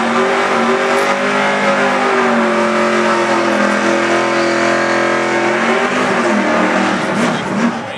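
Fox-body Ford Mustang doing a burnout: the engine held at high, steady revs while the rear tyres spin and smoke. The revs drop about six seconds in, followed by a couple of short blips near the end.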